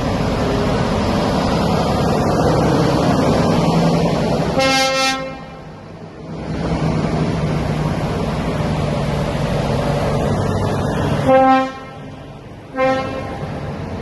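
Lorry tractor units running in a slow convoy, with truck air horns sounding: one blast about five seconds in, then two short blasts near the end.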